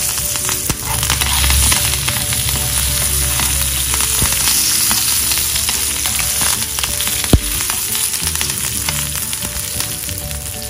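Curry leaves and green chillies sizzling and crackling in hot oil with mustard seeds, shallots and dried red chillies: a South Indian tempering (tadka) for chutney. Small spitting pops run through it, and there is one sharp loud click about seven seconds in.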